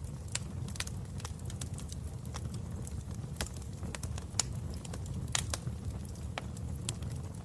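Wood fire in a fireplace crackling: irregular sharp pops and snaps, a few stronger ones, over a steady low rumble of flame.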